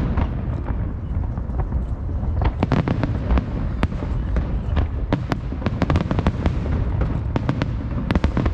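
Aerial fireworks shells bursting in quick, irregular succession: many sharp bangs, bunched in volleys, over a continuous low rumble.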